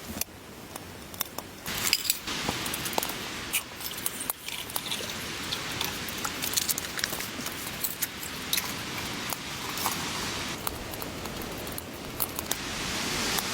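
Snow pattering steadily on tent fabric, with many small, irregular ticks of flakes or ice striking the walls.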